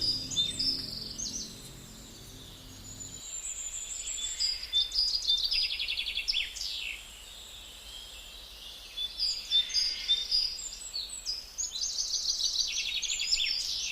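Small songbirds chirping and trilling in quick repeated phrases, with the end of a song's accompaniment fading out about three seconds in.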